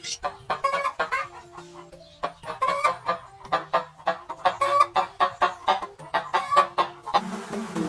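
Domestic chickens clucking in a rapid run of short calls, over background music. Near the end it gives way to a steady buzz.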